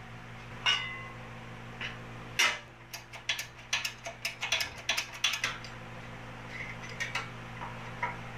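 Metal clicks and clinks from working a homemade tube bender and its tubing: two single clinks, then a quick run of sharp clicks, about four a second, midway. A steady electrical hum runs underneath.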